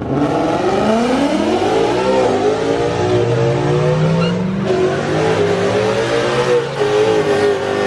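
Car engine revved hard at a street car meet: the pitch climbs and drops several times, then holds high and steady for a few seconds.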